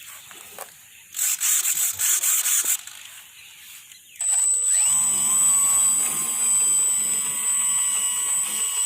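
A model airplane's electric motor spins up about four seconds in, its pitch rising and then holding as it runs steadily with a high whine. Before that, a few short bursts of servo whirring.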